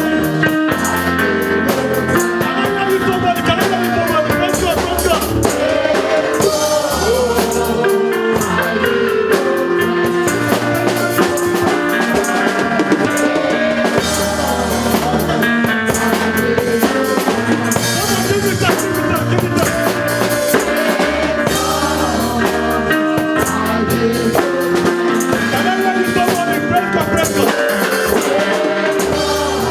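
Live worship band music: a drum kit keeping a steady beat with bass drum and rimshots, bass and keyboard underneath, and wavering sung or played melody lines on top.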